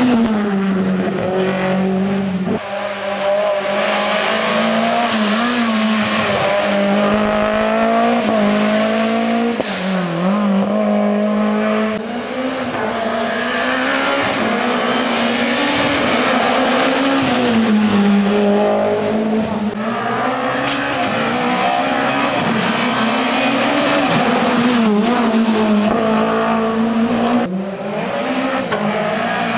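Rally car engines at full throttle on a special stage, revving up and dropping back again and again through gear changes and braking, almost without a break.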